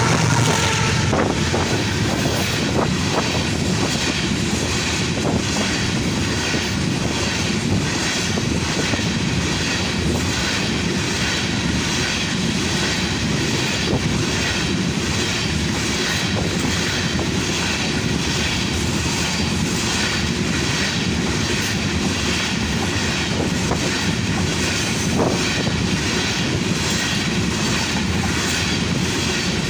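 Loaded coal train wagons rolling past at speed: a steady rumble with a regular clatter of wheels over the rails.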